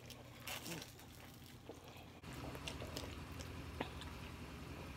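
Faint close-up chewing of garlic bread, with soft crunches and small mouth clicks.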